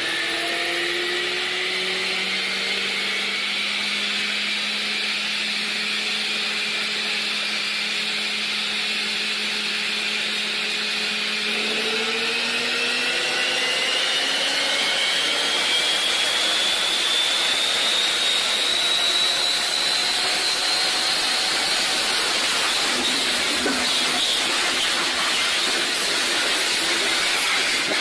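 Steady rushing vehicle noise with a whine that rises slowly in pitch, higher from about twelve seconds in.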